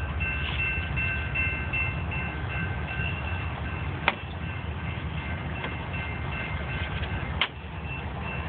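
Steady low machine hum with a faint high whine over it, and two sharp clicks, about four and seven and a half seconds in.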